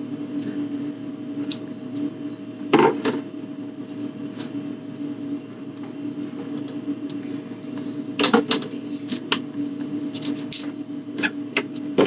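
Food containers and bottles being handled, moved and set down: scattered knocks and clatters, loudest about three seconds in and again about eight seconds in, over a steady hum.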